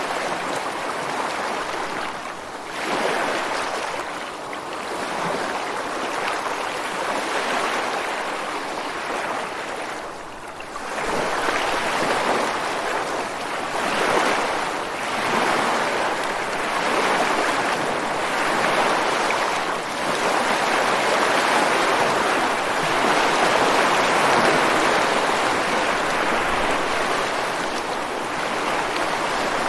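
Ocean waves breaking and washing over rocks on the shore, a continuous rush of surf that swells and eases every few seconds, briefly dropping off about ten seconds in before a louder run of breakers.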